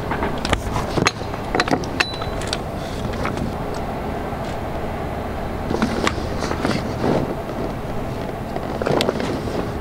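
Scattered clicks and knocks over a steady low rumble of background noise.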